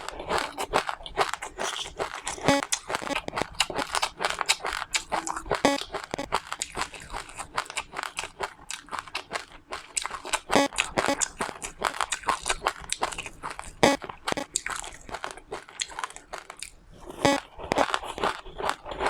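A person chewing and biting crunchy food close to the microphone: a dense, irregular run of sharp crunches.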